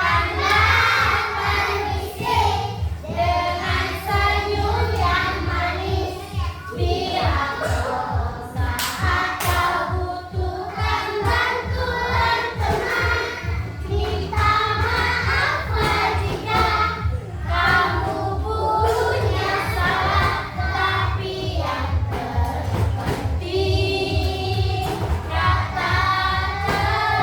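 A group of children singing a song together over a steady beat.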